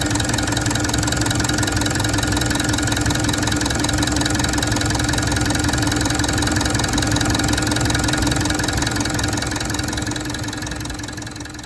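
Mitsubishi Fuso Canter's 4P10 four-cylinder diesel engine idling steadily with a diesel clatter. The sound fades out near the end.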